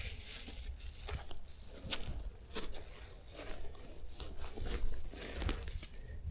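Plastic bag crinkling and rustling, with scattered small clicks, as cloudberries are picked by hand and dropped into it.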